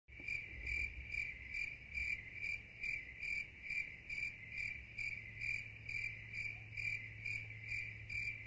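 Cricket chirping in an even, steady rhythm of about two to three chirps a second. It starts and stops abruptly with dead silence on either side, as an edited-in sound effect does.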